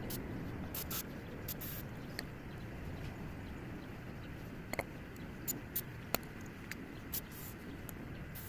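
Short bursts of aerosol spray being blown into a small-engine carburetor's needle-and-seat passage to flush it out, a few brief hisses, mixed with small clicks and taps of parts being handled.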